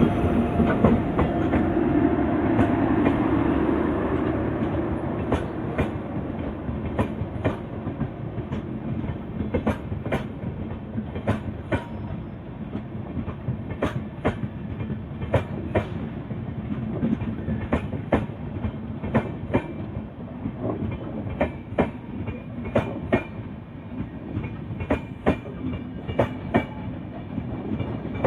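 Passenger train running on the rails. A heavy rumble in the first few seconds eases off, then the wheels click steadily over the rail joints as the coaches roll by.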